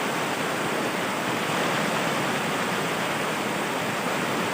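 River water rushing steadily over rapids, an even, unbroken wash of noise.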